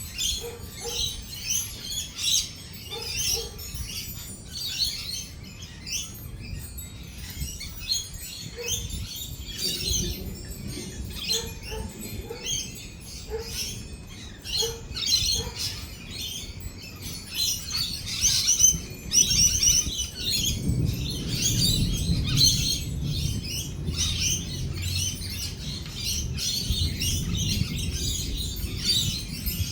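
A flock of lorikeets chattering and screeching without a break. About two-thirds of the way through, a long low roll of thunder builds beneath them.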